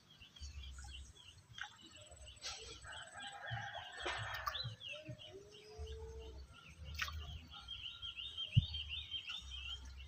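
Birds calling: quick runs of short, high chirps, with a longer, lower call around the middle. A single short knock near the end.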